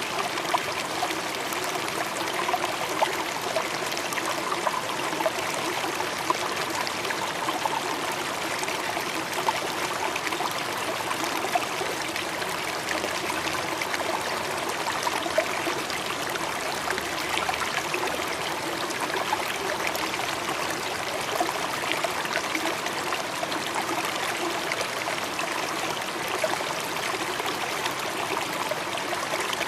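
Running water, a steady trickling stream with small splashes.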